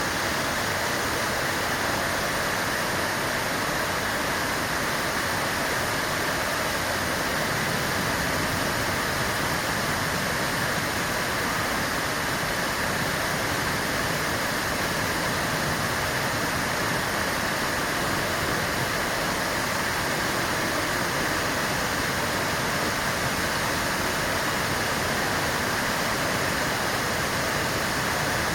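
Fountain water splashing steadily into its basin, an even, unbroken rush of falling water.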